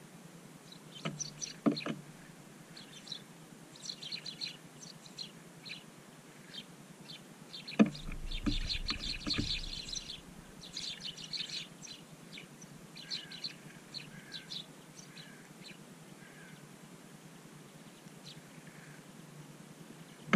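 Small songbirds chirping in many short, high calls around seed scattered on snow, with a few sharp knocks, the loudest about eight seconds in.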